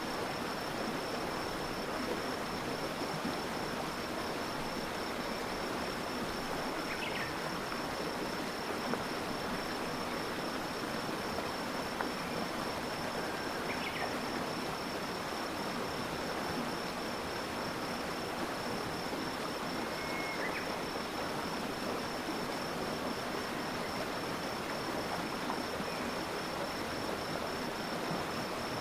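Stream water flowing steadily, with an unbroken high insect trill over it, typical of a cricket. Three short high chirps come through, about seven, fourteen and twenty seconds in.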